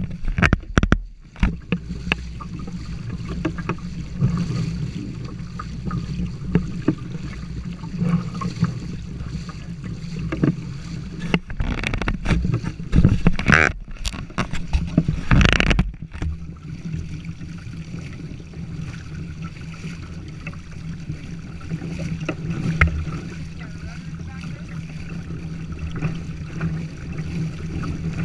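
Water slapping and splashing against a sailing kayak's hull as it moves under sail, irregular and heavier for a few seconds about halfway through, over a steady low rumble of wind on the microphone.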